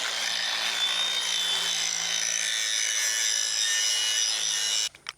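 Angle grinder grinding the sharp cut edge of a fence-brace pipe to round it over, a steady high-pitched grind with ringing tones. It stops suddenly near the end.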